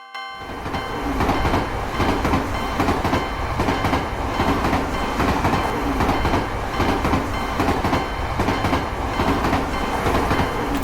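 A train passing over a level crossing, its wheels clattering steadily over the rail joints. The sound starts right after a short silence and swells over about a second.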